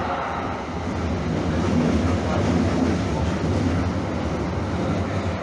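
Calgary Transit CTrain light rail vehicle running along the track, a steady rumble of wheels and traction motors with a low hum.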